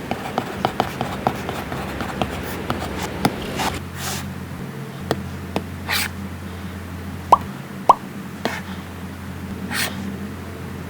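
Stylus tapping and scratching on an iPad Pro screen under a Paperlike matte protector: a quick run of taps, then a few short writing strokes and two sharper clicks, over a steady low hum.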